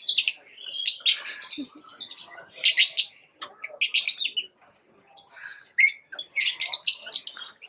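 Parrots calling: quick runs of short, high-pitched calls broken by brief pauses.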